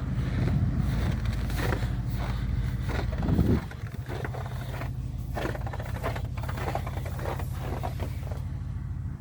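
An engine idling with a steady low hum. It swells briefly and then drops to a lower level about three and a half seconds in, with scattered short crunches or knocks over it.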